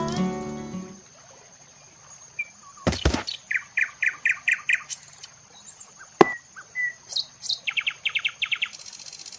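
Small birds chirping: a run of about six short chirps, then a quicker series of chirps near the end, with two sharp knocks in between.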